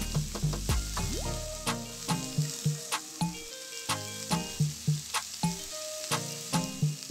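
Prawns sizzling steadily in hot oil in a pan as a spatula spreads them out. Light background music with a steady beat plays over it.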